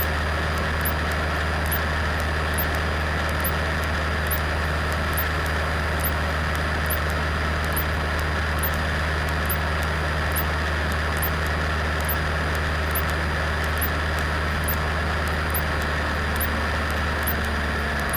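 Cessna 172 Skyhawk's engine and propeller droning steadily in cruise on the approach, with faint high ticks a little under a second apart.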